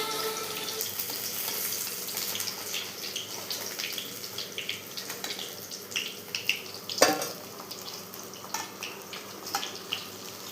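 Paneer paratha frying in oil, a steady sizzle with scattered crackles and one sharp knock about seven seconds in.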